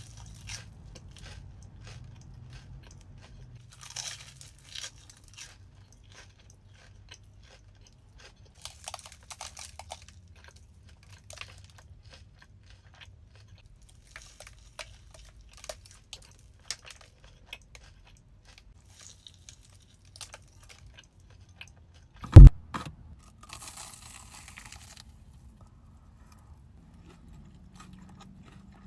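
Close-miked eating: crisp crunching bites and chewing of a batter-fried Korean corn dog, in scattered crackles over a low steady hum. One sharp, much louder knock or bump stands out about three quarters of the way through.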